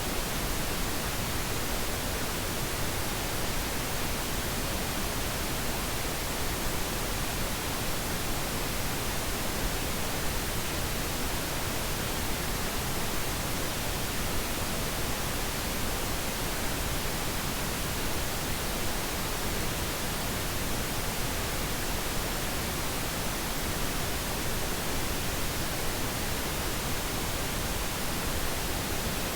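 Steady synthetic pink noise: an even, unchanging hiss spread across the whole range, with no events or changes.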